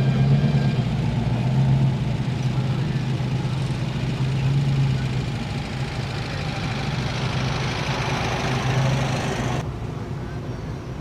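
A car engine running as a vehicle moves past, over a steady low hum. The sound cuts off abruptly shortly before the end.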